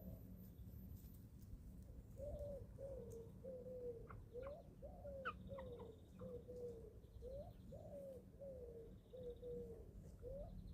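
A bird giving a series of low cooing calls, about two notes a second, some notes rising and others falling, starting about two seconds in. A few brief high peeps come from young chickens midway, over a faint steady hum.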